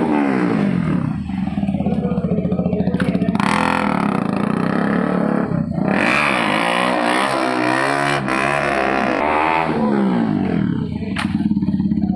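KTM 200 Duke's single-cylinder engine revved hard again and again while stunt-ridden, its pitch climbing and falling in several surges, with a few brief clicks.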